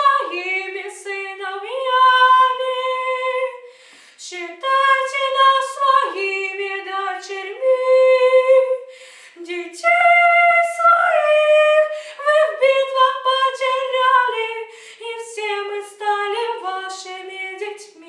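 A teenage girl singing solo and unaccompanied, a slow song with long held notes and short breaths between phrases; the last note dies away at the very end.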